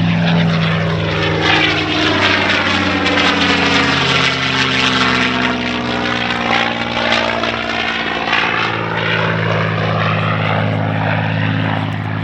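A North American P-51D Mustang's Merlin V-12 engine running loud and steady as the fighter flies past, its sound sweeping through the pass; the engine note shifts about eight seconds in.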